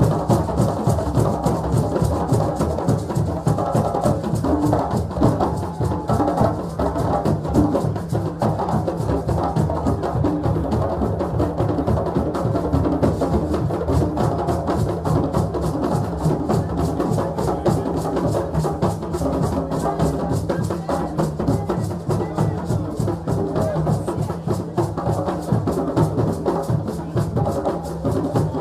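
Steady, dense rhythm of hand drums with other percussion, with voices mixed in, at a West African celebration.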